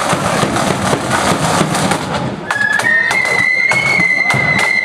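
Marching flute band: drum strokes keep a steady beat, and a high flute melody comes in about halfway through, stepping up and then down in pitch.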